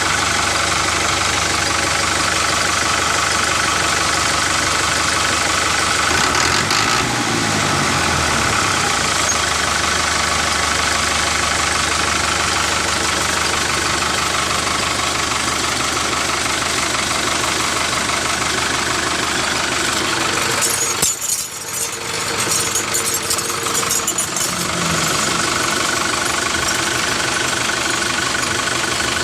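An engine running steadily at about idle speed, with a short rise and fall in pitch about seven seconds in and a brief dip about three quarters of the way through.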